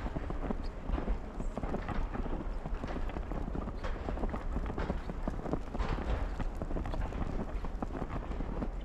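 Footsteps in snow: a steady run of short, irregular steps.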